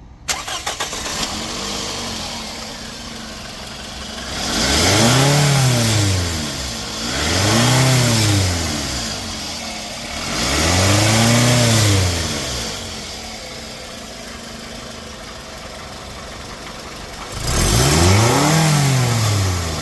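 Scion xB's 2.4-litre four-cylinder engine idling and being revved four times, each rev rising and falling back to idle. The leaking exhaust pipe flange gasket has just been replaced, and the engine now picks up without the earlier slow throttle response.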